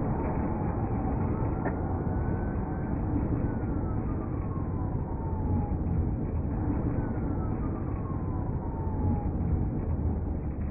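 A steady low rumble with a distant emergency siren over it, its wail rising once and then falling slowly twice.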